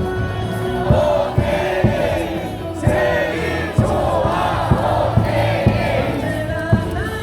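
Baseball stadium crowd singing and chanting a batter's cheer song in unison over music from the stadium speakers, with a sharp beat landing about twice a second.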